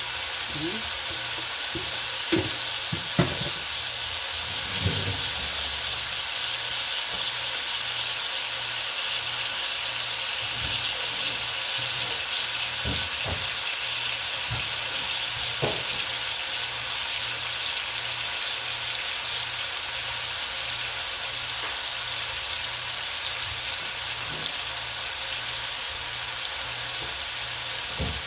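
Tofu, tomato and string beans sizzling steadily in oil in a wok. A few light knocks and clicks come in the first five seconds and once more at about a quarter of the way past the middle.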